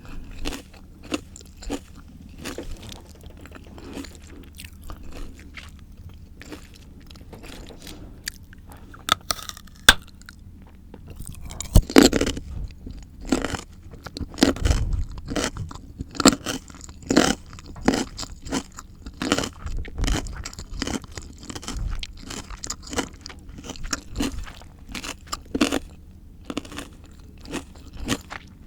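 Close-miked crunching and chewing of raw, crisp fruit and vegetables, with sharp crackling bites coming irregularly. About twelve seconds in the crunches get louder and more frequent.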